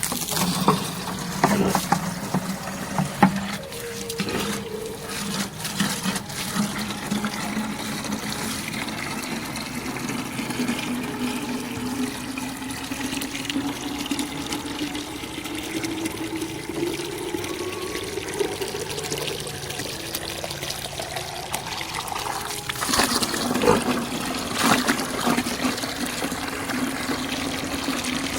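Water running and splashing while a pig pen is washed out, over a steady low hum that slowly rises and falls in pitch.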